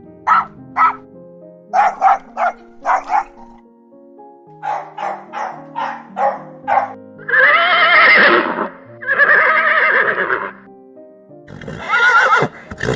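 Horse whinnying twice, long wavering calls about halfway through, after a run of short animal calls, over background music.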